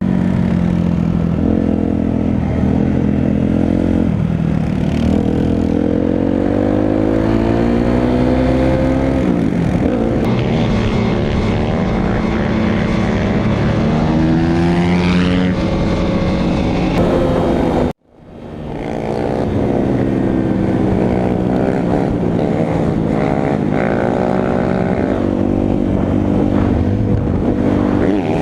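Dirt bike and quad engines running and revving, their pitch rising and falling as they ride. The sound cuts out abruptly for a moment about 18 seconds in, then comes back.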